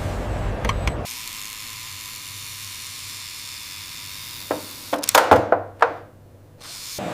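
Factory machinery running, cutting off about a second in to a steady hiss. About four and a half seconds in comes a quick run of sharp clicks and knocks, then the machine noise starts again near the end.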